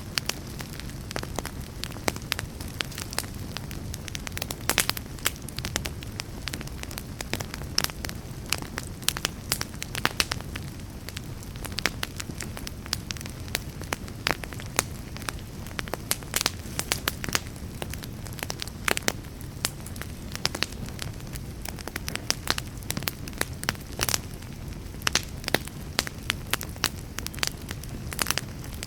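Fireplace fire crackling: a steady low rumble of burning with frequent, irregular sharp pops and snaps throughout.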